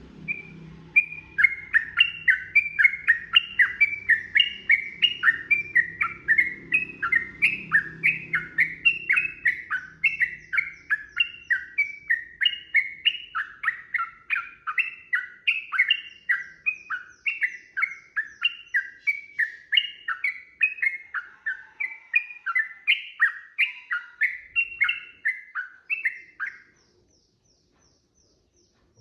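Yellow-vented bulbul (trucukan) singing a long, fast, unbroken run of repeated chattering notes, about three or four a second, that stops suddenly about 26 seconds in.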